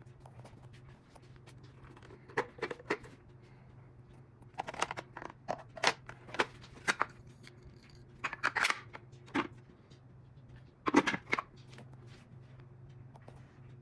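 A series of sharp clicks and clatters in several short clusters, over a steady low hum.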